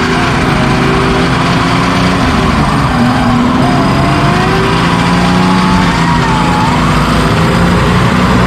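Off-road 4x4 engine running hard under load, its pitch rising and falling as the throttle is worked.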